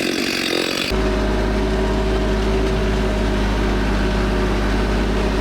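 A vehicle engine running steadily at idle with a deep rumble. It starts abruptly about a second in, cutting off a brief hissing sound.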